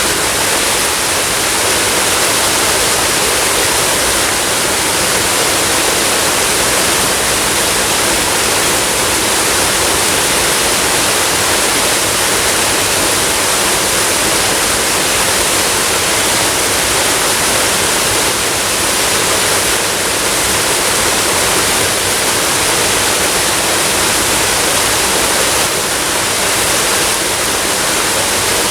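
Waterfall: water falling and rushing steadily, a loud, even hiss with little deep rumble.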